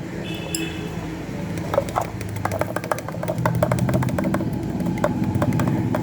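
Stirring stick clicking and tapping rapidly against a glass container, several light knocks a second from about two seconds in, over a steady low hum.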